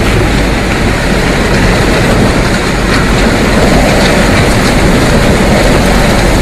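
Strong wind buffeting the microphone: a loud, steady rushing roar with a low rumbling flutter.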